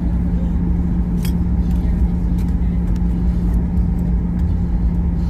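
Steady low rumble inside a Boeing 737-800's cabin on the ground just after landing, with a constant hum and a few faint clicks.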